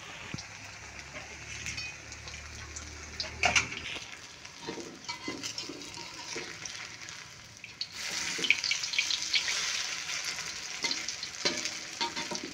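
Vegetable fritter (bakwan) sizzling and crackling in hot oil in a wok, with a metal spatula knocking and scraping against the pan now and then. The sizzle gets louder about eight seconds in.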